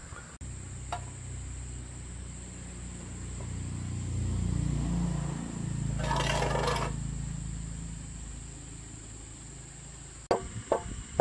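A small diesel engine running with a low, steady hum that swells and rises slightly in pitch midway, with a short hiss about six seconds in. It cuts to plucked-string music near the end.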